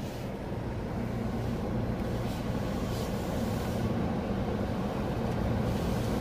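Steady low mechanical rumble of a car wash, heard from inside the car, slowly growing louder.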